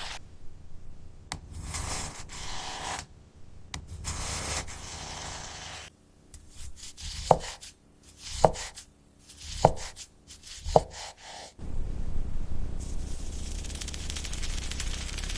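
Knife cutting and scraping through cake, with four sharp ringing taps about a second apart partway through.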